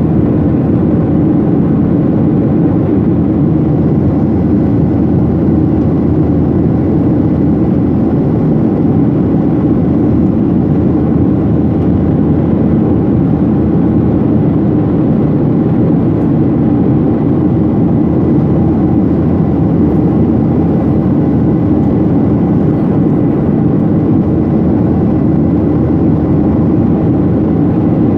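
Steady jet airliner noise heard inside the passenger cabin: engine and airflow noise that stays level and unchanging throughout.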